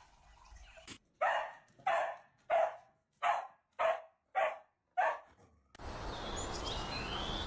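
A dog barking seven times in a steady series, about one bark every 0.6 s. A steady background hiss with a few faint high chirps follows near the end.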